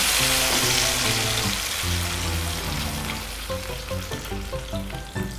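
Blended chili and shallot spice paste sizzling in hot oil in a frying pan, loud at first and dying down over the few seconds as the wet paste takes the heat out of the oil.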